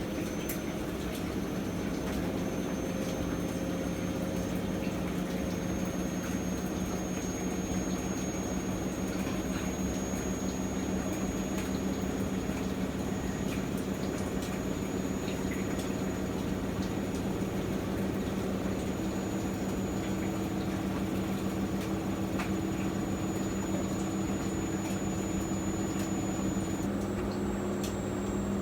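Miele MedicWash W2585 washing machine running its hygiene cycle: a steady machine hum with a faint high whine and the sound of water moving inside, with a slight shift in the hum near the end.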